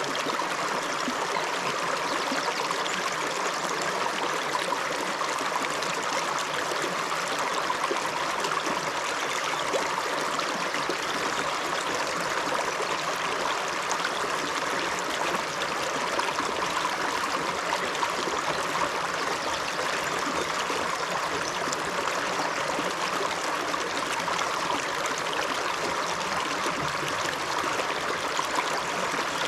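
River water running and splashing over stones, a steady rush that stays even throughout.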